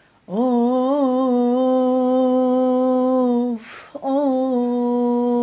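A voice singing long, drawn-out "of" notes of lament. Each note is held steady in pitch, and the first slides up into place and wavers briefly. A quick breath comes between the two notes, about three and a half seconds in.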